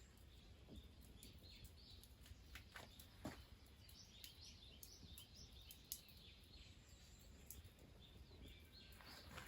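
Near silence with faint bird chirps and a few scattered soft clicks.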